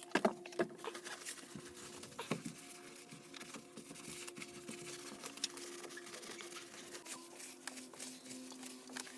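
Faint, irregular patter of small clicks and rustles from hands-on cleaning work inside a car's interior, over a faint steady hum that drops lower near the end.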